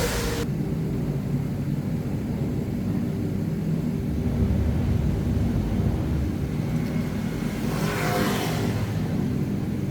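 Steady low mechanical rumble like a running engine, with a short burst of hiss at the start and another about eight seconds in.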